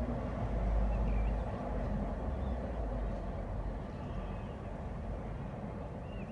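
Steady low outdoor rumble, a little louder about a second in, with a few faint high chirps over it; no blast or bang.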